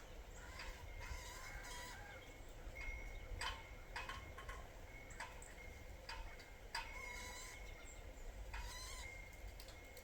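Wild birds calling at a sunflower-seed feeder: a string of short calls and chips, with a few longer calls about a second in, around seven seconds and near nine seconds.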